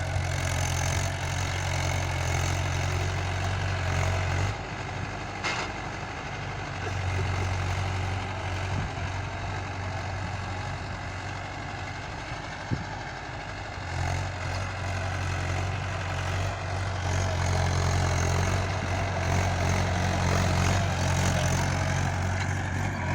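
Mahindra 585 Sarpanch tractor's diesel engine running steadily at idle. Its low hum fades somewhat about four seconds in and comes back strongly about fourteen seconds in.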